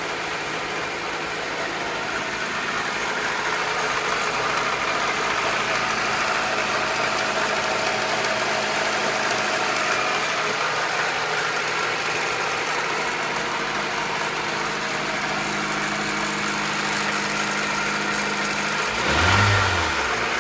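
Acura Integra's B18B1 1.8-litre four-cylinder engine idling steadily with a clicking from the valvetrain, the sign of valves out of adjustment. Near the end there is a brief louder swell that rises and falls in pitch.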